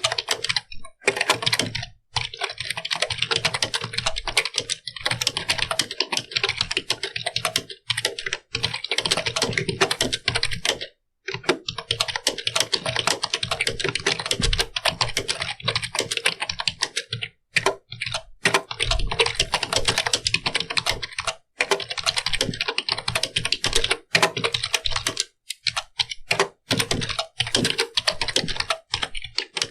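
Typing on a computer keyboard: rapid runs of keystroke clicks with brief pauses between runs.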